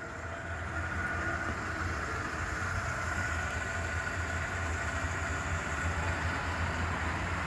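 Truck engine idling steadily: a low, even hum with a faint high whine above it.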